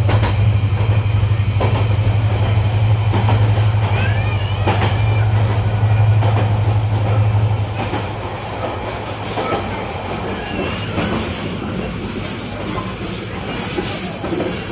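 Passenger train running on the rails: a steady low rumble with high wheel squeals around the middle, likely on curves. The low rumble drops away about eight seconds in.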